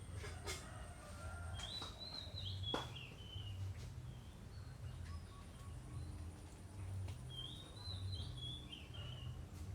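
A songbird singing two short warbling phrases about five seconds apart, over a steady low hum with a few faint clicks.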